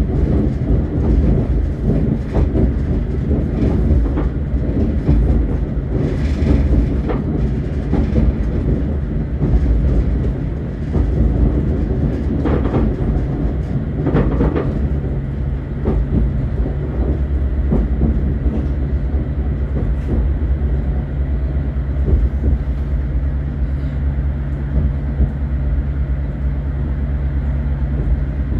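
Passenger train running, heard from inside the carriage: a steady low rumble of wheels on the rails with scattered clicks and knocks. A steady low hum comes in about halfway through.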